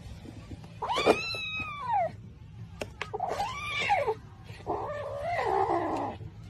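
Cat yowling in three long drawn-out calls, each rising and then falling in pitch.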